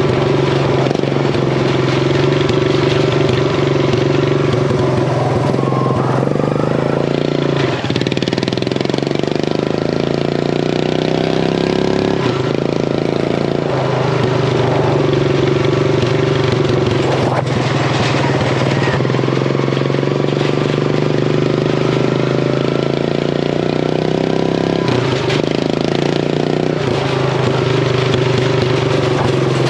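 Craftsman riding mower's engine with an open header running hard and loud, its pitch dropping and climbing again several times as the throttle and speed change.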